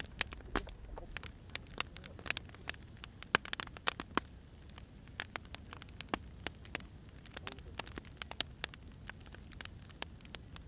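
Firewood burning, crackling with irregular sharp pops, some much louder than others, over a low steady rumble of the flames.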